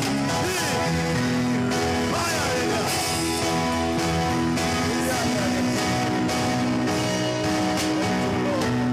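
Worship music from a band, with steady guitar-led chords and a voice singing in places.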